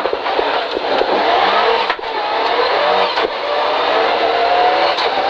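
Rally car engine heard from inside the cabin, pulling hard under acceleration with the revs climbing. About two seconds in there is a brief dip as a gear is changed up into third, and then the revs climb again.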